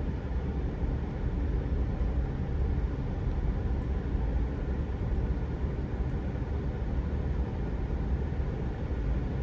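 Steady low rumble of a vehicle driving slowly: engine and tyre noise heard from the moving vehicle.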